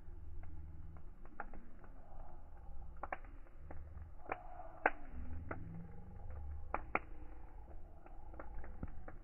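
Wood fire burning: a steady low rumble of flames with scattered crackles and a handful of sharper pops.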